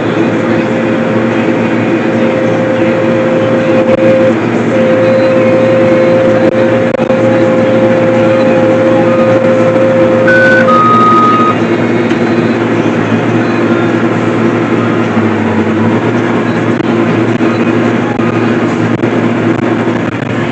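Farm vehicle engine running steadily under load, with a steady whine over it that fades out about halfway through. A short two-note electronic beep sounds near the middle.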